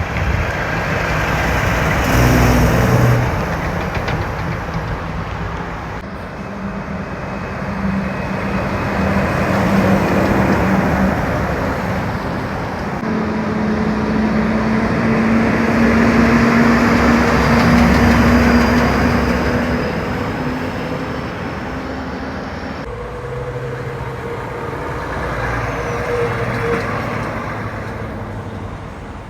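Heavy trucks and other highway traffic driving past, the engine hum and tyre noise swelling and fading as each vehicle goes by, several passes in a row.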